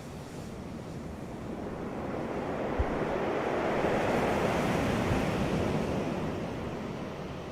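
Ocean waves breaking on a beach: one wave swells up about two seconds in, washes loudest in the middle and fades away near the end, with a brief low thump as it breaks.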